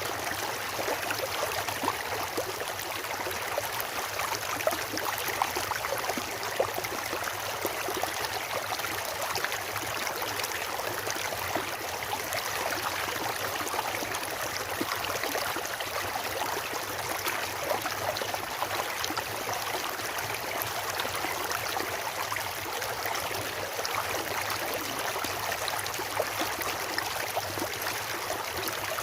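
A stream or small river running over rocks, with steady, even splashing and gurgling water.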